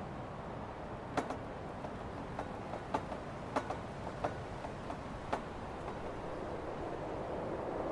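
Steady blizzard wind, a smooth rushing noise that swells near the end, with about ten sharp, irregular clicks and cracks through the middle.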